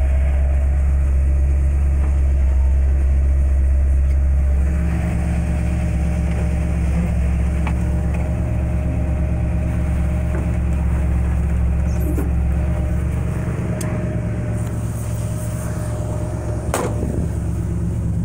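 Chevrolet crate 350 small-block V8 with a four-barrel carburettor idling steadily through Magnaflow dual exhaust. The idle note changes about five seconds in, and there is one sharp click near the end.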